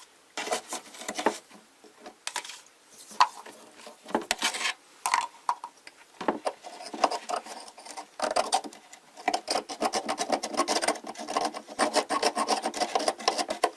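A toothbrush scrubbing hard mineral scale off the inside of a humidifier. It goes in short, irregular scratchy strokes at first, then quick, steady back-and-forth scrubbing from about nine seconds in.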